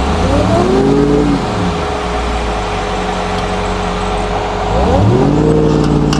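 Ford F-150 Raptor pickup's engine revving under throttle. Its pitch climbs about half a second in and falls back, then climbs again near the end and holds there.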